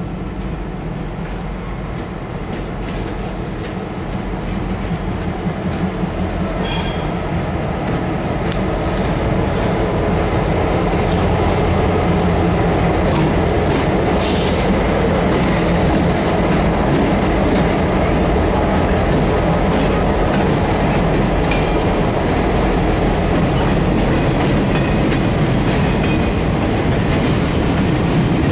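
Freight train rolling past at close range: a steady low rumble that builds over the first ten seconds and then holds, with wheels clicking over the rail joints. A brief high squeal comes about seven seconds in.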